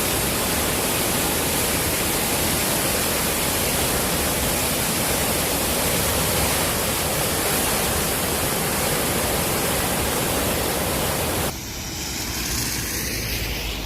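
Steady rush of fast-flowing water from a rain-swollen creek. About eleven and a half seconds in, it cuts off abruptly to a quieter, different rushing noise.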